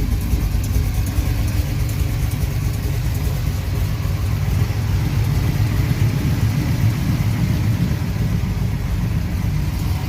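High-performance Merlin big-block V8 in a 1969 Chevy Nova idling steadily through headers and dual exhaust, with a deep, even exhaust note.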